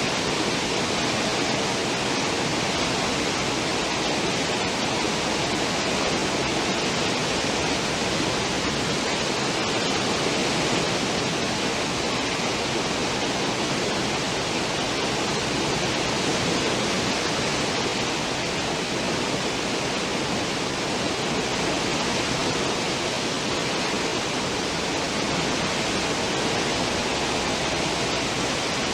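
Cruise ship's stern wake: a steady, unbroken rush of churning water.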